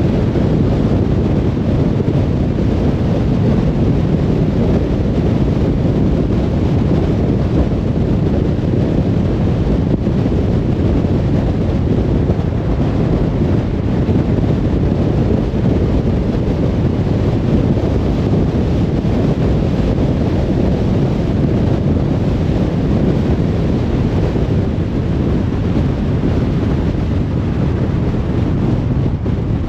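Steady road noise of a car cruising on a motorway: an even tyre and wind rumble, heaviest in the low end, with no changes.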